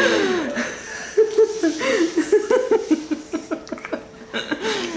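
Laughter: an opening falling sound, then a run of quick ha-ha pulses, about four a second, for a few seconds, and another short burst near the end.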